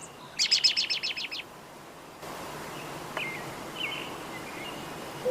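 A bird sings a quick, high trill of about nine chirps, then a few faint single chirps over a steady hiss.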